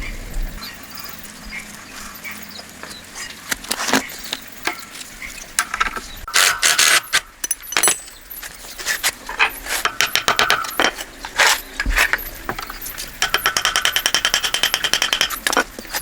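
Hand tools and metal engine parts clinking and knocking during mechanical work, with a fast, even run of ratchet-wrench clicks about thirteen seconds in that lasts a couple of seconds.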